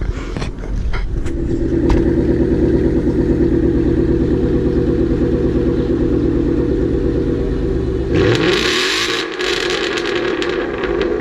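Car engine idling with a steady, rapid pulse; about eight seconds in it revs up with a rising pitch, and a loud rushing hiss takes over.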